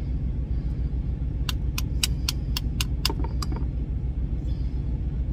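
Steady low rumble of an idling truck engine, with a quick run of about nine sharp clicks around the middle, roughly four a second.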